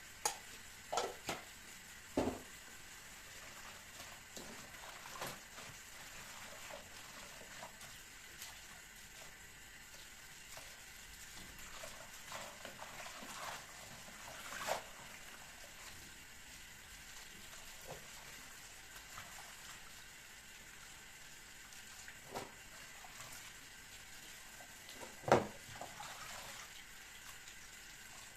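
Scattered light knocks and clicks of kitchen items being handled and set down, over a faint steady hiss, with the sharpest knock near the end.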